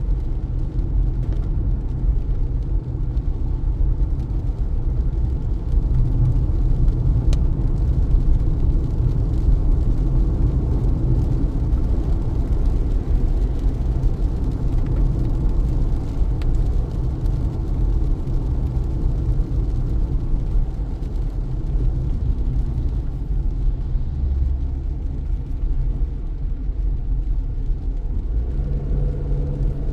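Car driving in heavy rain: a steady low rumble of engine and tyres on the wet road. Near the end a low hum with a few steady tones comes in over it.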